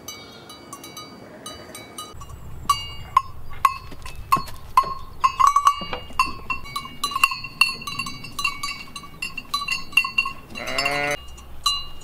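Metal bells on sheep's collars clanking and ringing irregularly, several strikes a second, as the sheep move. One sheep bleats once near the end.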